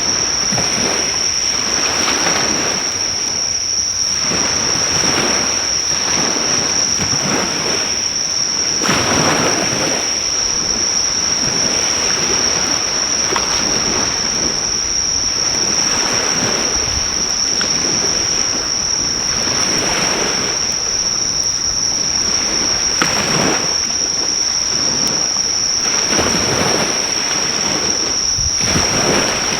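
Waves breaking and washing on a shore, surging every few seconds, under a continuous high-pitched insect trill.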